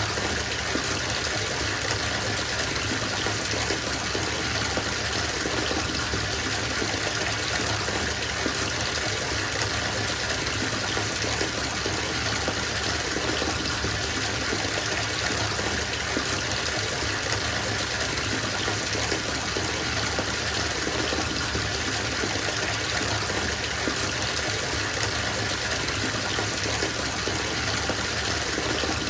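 Water running from a bathtub tap into the tub as it fills: a steady, even gushing.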